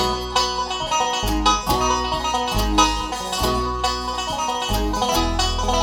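Bluegrass band playing live, with a banjo picking the lead over guitar and deep bass notes.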